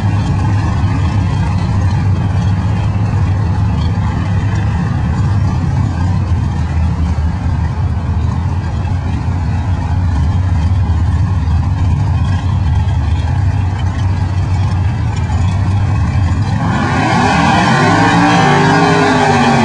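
Drag car engine idling with a steady low rumble, then near the end it revs up loudly, the pitch sweeping up and down.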